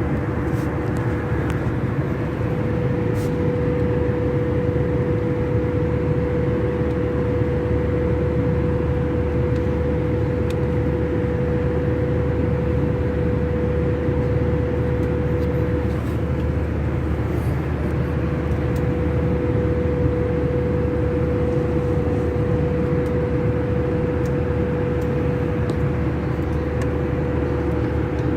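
Steady drone of an airliner cabin in flight: engine and airflow rumble with a constant hum running under it.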